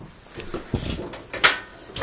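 Light handling rustle with two sharp knocks, the second about a second and a half in, like a cabinet or appliance door being touched.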